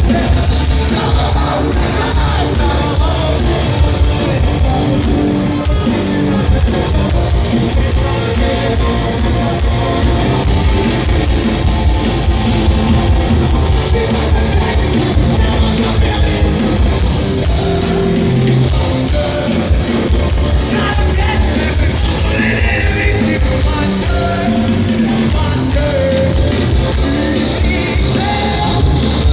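Live hardcore band playing loud with distorted guitars, bass and drums, with shouted vocals over the top.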